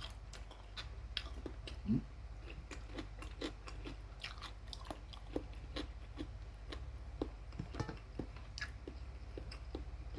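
Close-up chewing of crisp fried chicken: a steady run of small crunches and wet mouth clicks, with a short closed-mouth "mm" about two seconds in.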